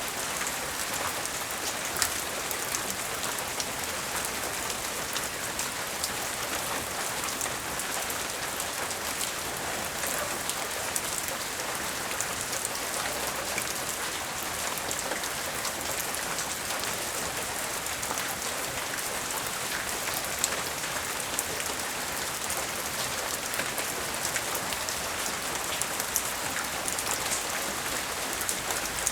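Steady light rain falling, an even hiss with now and then a single louder drop hitting.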